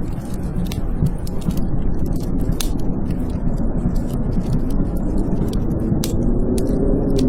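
Blizzard wind howling with a low rumble and a wavering whistle that rises again near the end, over scattered sharp crackles of a wood fire burning in a fireplace.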